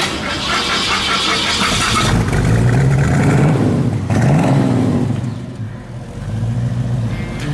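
Car engine accelerating, its pitch rising and dropping back a couple of times, with a loud rushing noise in the first two seconds.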